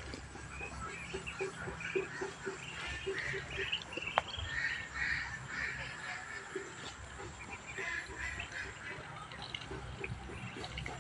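Domestic ducks calling, over a quick patter of short wet pulses, several a second, from ducks dabbling in water.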